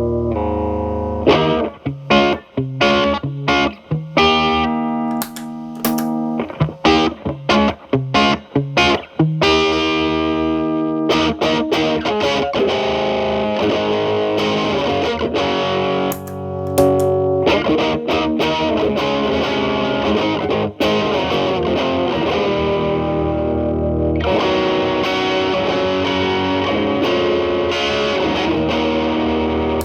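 Electric guitar, a Telecaster with Alnico single-coil pickups, played through an MI Audio Crunch Box distortion pedal set at gain 10 into a Marshall Valvestate amp's clean channel, with the drive cleaned up. Short, choppy chord stabs for about the first nine seconds, then ringing chords and lines.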